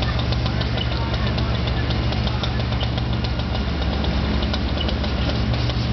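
An engine idling steadily, not under load.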